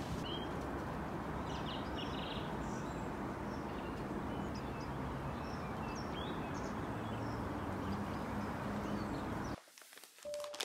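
Small birds chirping in short, scattered calls over a steady outdoor background noise, which cuts off near the end.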